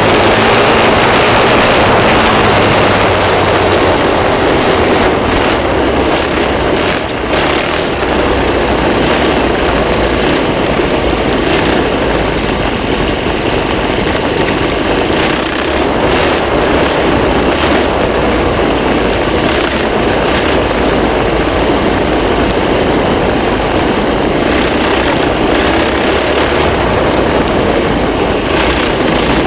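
Off-road motorbike engine running steadily and loudly as the bike is ridden, a continuous rough noise with no breaks.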